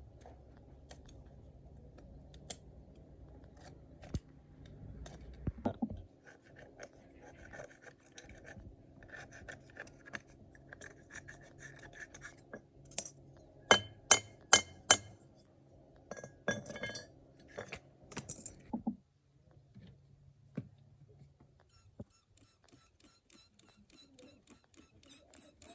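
Hand work on small hard parts: scattered clinks and scrapes, with four sharp, loud clinks in quick succession about halfway through, over a faint steady low hum that stops about three quarters of the way through.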